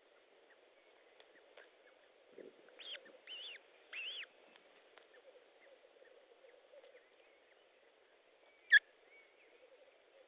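Bird calls: three short arched notes in quick succession, each rising and then falling in pitch, a few seconds in, then a single sharp, loud note near the end, over a steady low hum.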